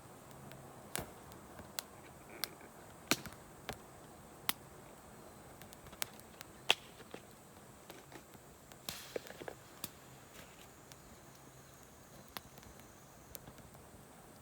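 Wood campfire crackling: sharp, irregular pops and snaps about once a second, with a quick cluster of them a little past the middle.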